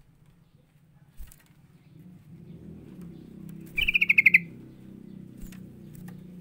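Yellow-vented bulbul giving one rapid, chattering burst of about ten notes, falling slightly in pitch, about four seconds in, over a low steady hum.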